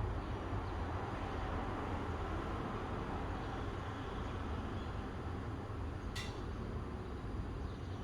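Steady outdoor ambient noise with a low rumble, and a single short high-pitched tick about six seconds in.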